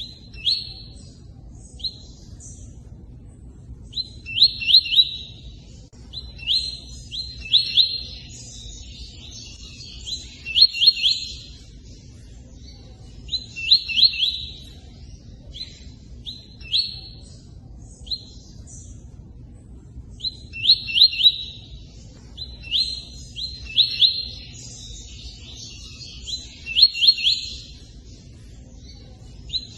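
Songbird singing a 'tui-tui' song: short, quick whistled phrases of a few notes, one every two to three seconds with brief pauses between them. A steady low rush of running water lies underneath.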